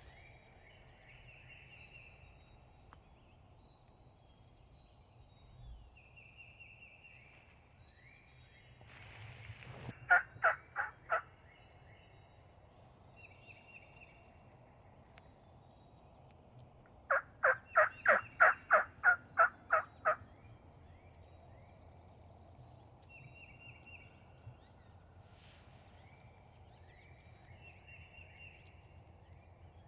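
Turkey calling: a short run of four loud, evenly spaced notes about ten seconds in, then a longer run of about ten notes some seven seconds later, around three a second. Small birds sing faintly throughout.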